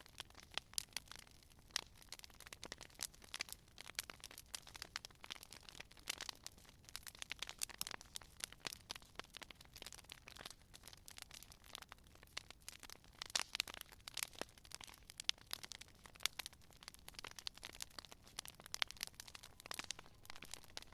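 Campfire crackling: wood burning with many small irregular pops and snaps, a few louder ones, over a faint low hiss of the flames.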